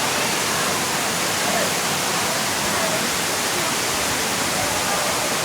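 Waterfall's water rushing in a steady, unbroken hiss.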